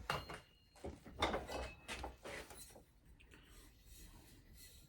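A few short knocks and scrapes in the first two and a half seconds, then only faint background.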